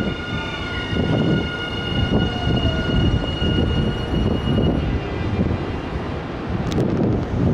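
Nankai electric train running through the station: a heavy rumble of wheels on rails with a steady high whine that stops around the middle, and a few sharp clicks near the end.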